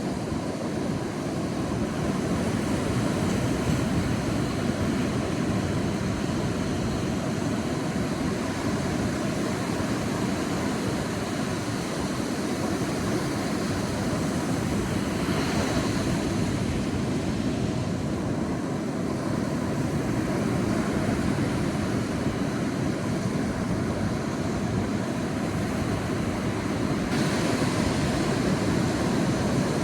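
Ocean waves breaking on a beach: a steady wash of surf, with a brighter hiss of a wave breaking about halfway through and again near the end.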